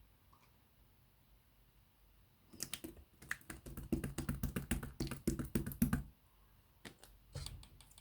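Clear slime being pressed and worked by hand, making a quick run of small sharp clicks and pops for about three and a half seconds, starting about two and a half seconds in, then a few more clicks near the end.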